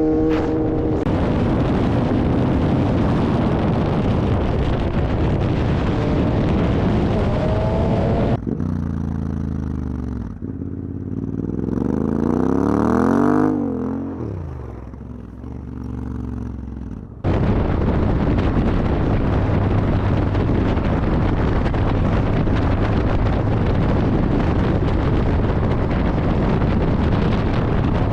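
Motorcycle ride at speed: loud wind and road rush on the microphone. About eight seconds in it cuts to an engine note that climbs and then falls for several seconds, and near the middle it cuts back to the steady wind rush.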